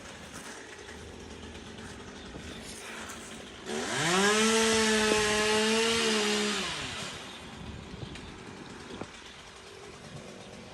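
Chainsaw engine revving sharply up to full throttle, holding high and steady for about three seconds, then dropping back to idle.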